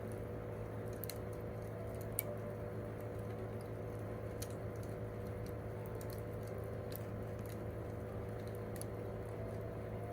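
Wood campfire crackling, with scattered sharp pops, the loudest about two seconds in, over a steady low hum.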